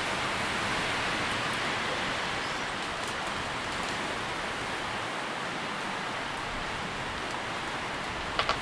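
Tree leaves rustling steadily in the wind, swelling slightly in the first couple of seconds. Two sharp clicks near the end.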